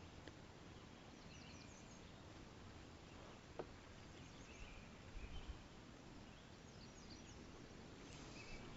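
Near silence: faint outdoor ambience with small, high bird chirps now and then, a brief click a little past three and a half seconds in and a soft low thump around five seconds.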